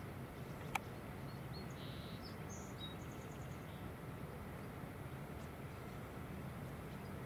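Faint, high chirps of small birds in the background, clustered in the first half, over a steady low hiss and hum, with one sharp click about three-quarters of a second in.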